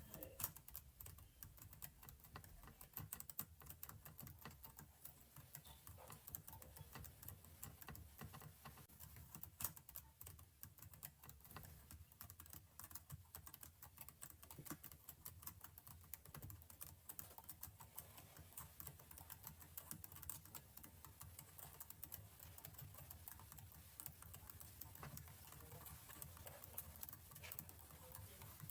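Faint computer keyboard typing: a dense, irregular run of small key clicks.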